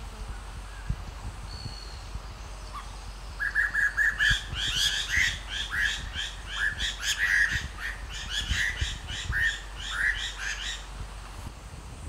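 Striated laughing thrush calling: a fast, uneven run of short repeated chirps that starts a few seconds in, goes on for about seven seconds and stops shortly before the end.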